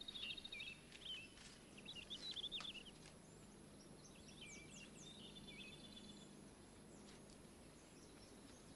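Faint birdsong: small birds chirping and trilling in short bursts, mostly in the first half, over a quiet outdoor background hiss.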